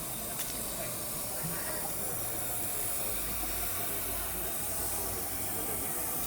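Steam locomotive hissing steam: a steady hiss that does not let up, with a faint click about half a second in.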